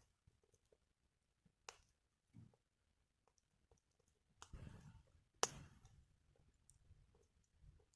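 Wood fire crackling faintly, with a few scattered sharp pops. The loudest pop comes about five and a half seconds in, over a soft low hiss.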